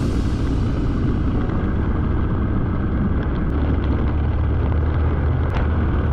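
Motorcycle under way on the road: the engine runs steadily under loud, constant wind noise on the microphone.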